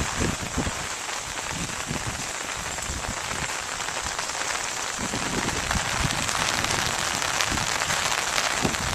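Steady rain falling and pattering on surfaces, with occasional low gusts of wind on the microphone.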